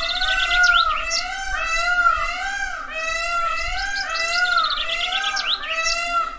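Birds calling: a steady run of repeated swooping calls about twice a second, with quick high chirps and trills over them.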